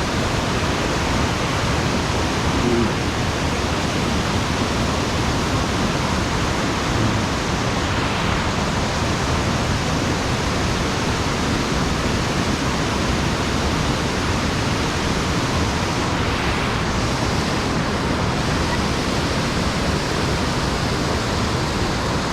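Steady, unbroken rush of mountain-stream water pouring over a sabo dam.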